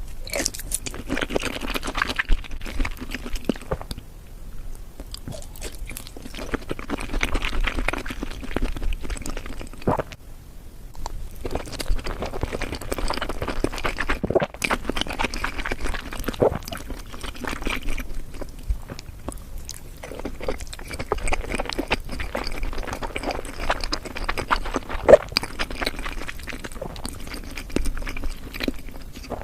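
Close-miked chewing and biting of raw seafood sushi and sashimi, in bouts of mouth sounds broken by short pauses.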